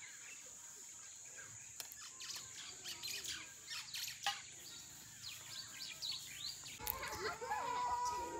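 Birds chirping outdoors: many short, quick high chirps, then a longer, lower call near the end.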